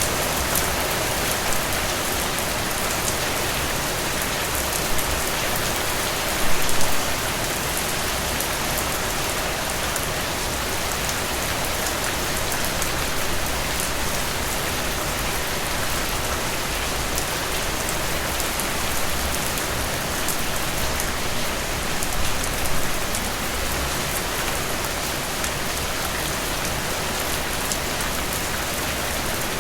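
Steady rain falling, an even hiss with fine individual drops ticking through it. Two brief louder spatters stand out, one about a quarter of the way in and another about three-quarters through.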